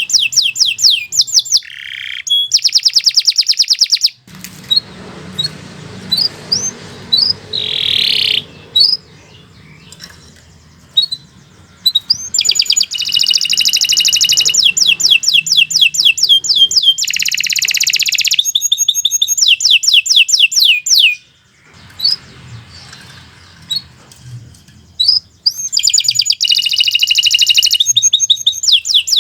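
Domestic canary singing a long song of fast trills, each a rapid run of repeated high notes, with buzzy rolls between them. Twice the song breaks off for several seconds, leaving scattered chirps over a low background rumble.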